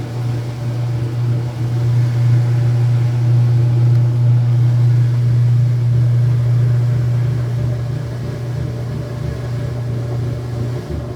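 Whirlpool washing machine on its high-speed spin cycle: the drum spinning fast with a steady deep hum, swelling a little about two seconds in and easing slightly toward the end.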